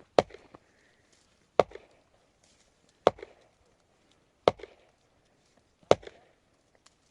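Five heavy chopping strokes, evenly spaced about a second and a half apart, each followed by a brief clatter of smaller knocks.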